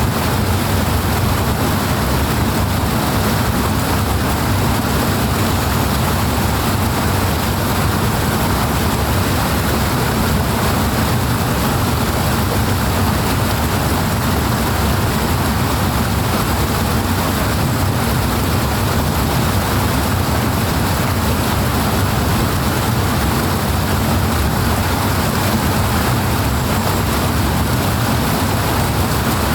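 Powerful water rushing and splashing steadily, an unbroken loud wash of sound with no pauses or changes.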